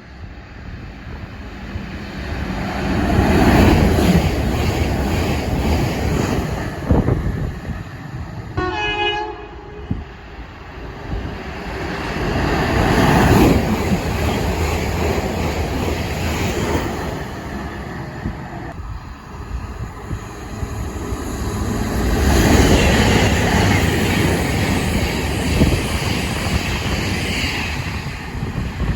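Passing trains: the rushing noise swells and fades several times, with a short horn blast about nine seconds in.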